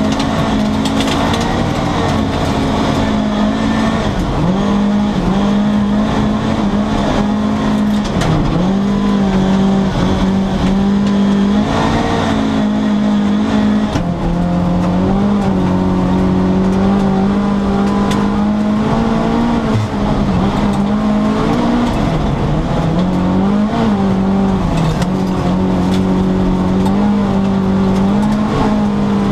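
Volvo 240 rally car's engine running hard at high revs, heard from inside the cabin; its pitch drops briefly and climbs again several times as gears are changed.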